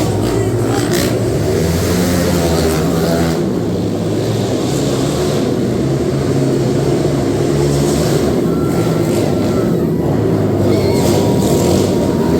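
Quad (ATV) engines running and revving during a race, loud and continuous, with the pitch shifting as the riders work the throttle.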